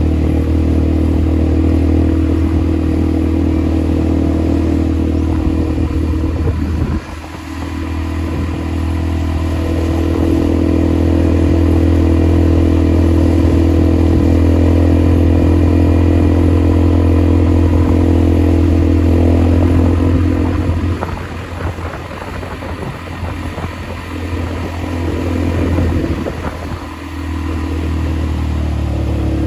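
ATV engine running with a steady note. It drops off sharply about a quarter of the way in and builds back up, then eases and wavers over the last third before picking up again near the end.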